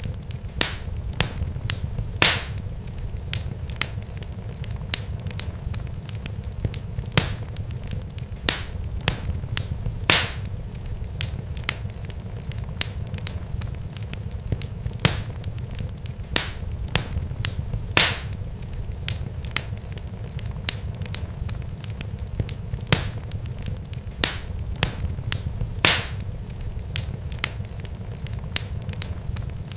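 Irregular sharp crackles and pops, with a louder crack every few seconds, over a steady low rumble.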